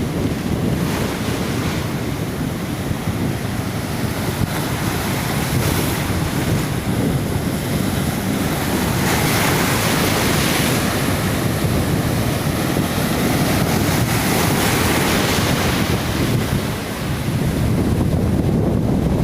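Sea waves surging and breaking on the shore in a continuous wash, with stronger surges about halfway through. Wind buffets the microphone as a low rumble underneath.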